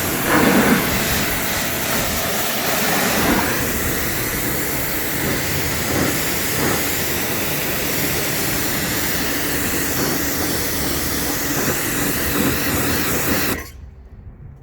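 Ryobi 2400 W electric pressure washer spraying through a short gun fitted with an extension arm: a steady, loud hiss of high-pressure water over the pump's hum. The trigger is let go about a second before the end and the spray and pump stop suddenly.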